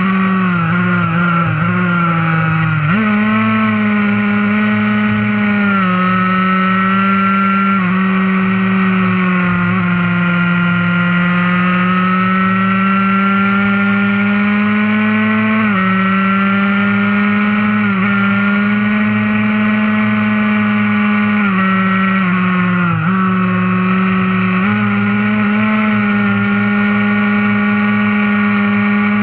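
Fully modified Honda NSR50's single-cylinder two-stroke engine running hard at high revs, buzzing through an expansion-chamber exhaust. Its pitch climbs steadily as it pulls and drops sharply at gear changes about half a dozen times.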